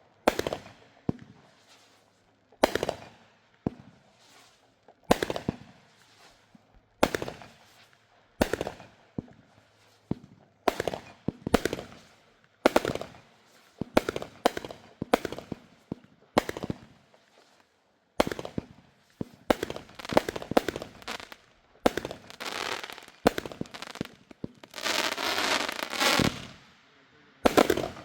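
Consumer fireworks going off: a string of sharp bangs, one every second or so. They come faster and overlap in the last third, with a couple of seconds of dense crackling near the end.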